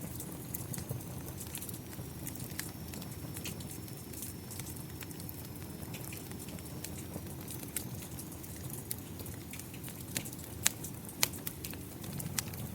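Wood fire crackling, with scattered sharp pops (two louder ones near the end) over a steady low rumble of fire and rain. A faint, thin high whistle runs through the middle.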